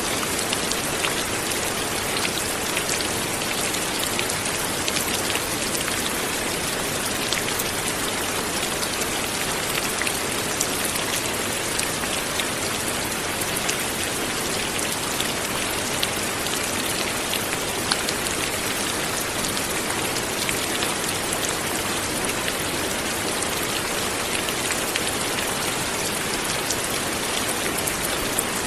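Steady light rain falling, with many fine drop patters over an even hiss.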